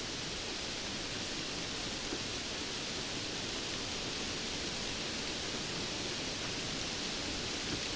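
Steady rainfall: an even, unbroken hiss of rain with no distinct drops standing out.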